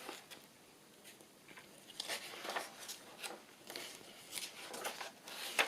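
Soft, irregular rustles and light taps of paper and card being handled and laid down, starting about two seconds in, with one sharper tap near the end.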